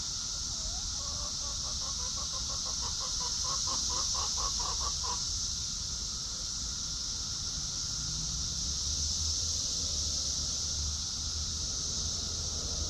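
A chicken clucking in a quick run of repeated short notes for about four seconds, growing louder toward the end, over a steady high hiss of insects and a low rumble.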